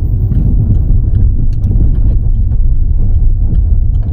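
Car interior road and engine rumble while driving, with a regular light ticking about two to three times a second.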